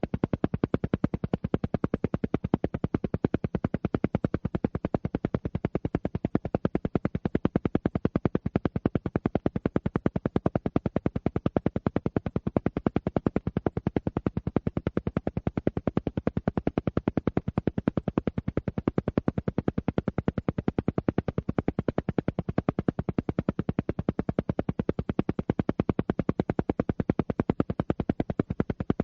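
Alpha-wave brainwave-entrainment audio: a steady, unbroken train of rapid, evenly spaced pulses, about ten a second, at an even loudness.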